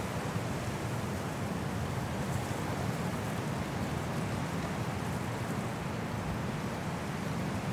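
Strong wind blowing steadily through trees in a snowstorm: a continuous, even rushing with most of its weight low down.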